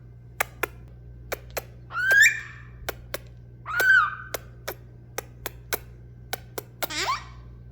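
A parrot vocalizing: three short calls that glide in pitch, a couple of seconds apart, with many sharp clicks in between.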